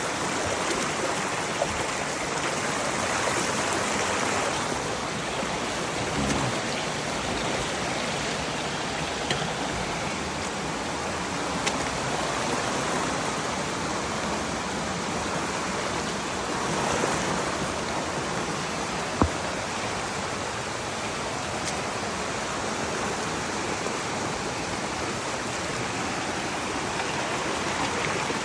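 Rain-swollen river rushing past in a heavy, fast flow, a steady even roar of water. A few small clicks and one sharp tick about nineteen seconds in rise above it.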